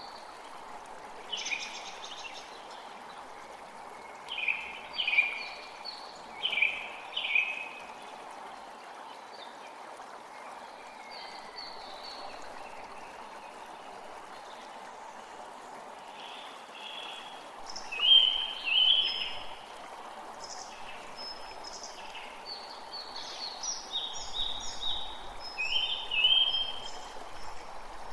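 A forest creek running steadily, with birds singing over it in short bursts of quick high chirps. The loudest bursts come about two-thirds of the way through and again near the end.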